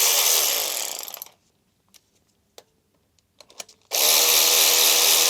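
A handheld electric power tool runs at full speed, winds down and stops about a second in. After a pause with a few light clicks it runs again near the end. It is being used on the damaged pulley bolts, which will not come out.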